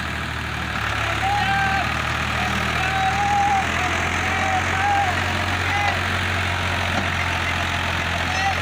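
Diesel tractor engine running steadily at low revs. A wavering higher-pitched sound comes and goes over it every second or so.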